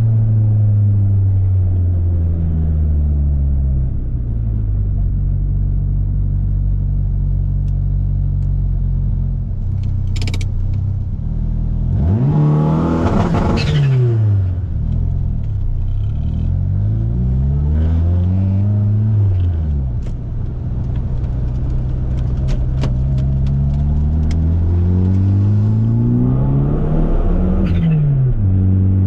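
Turbocharged Mitsubishi Eclipse GSX's four-cylinder engine under way, running steadily, then revving up and dropping back three times.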